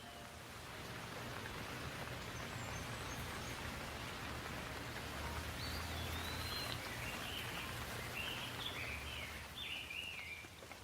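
Steady rain falling, an even hiss of drops. Birds chirp in short rising and falling notes over it during the second half.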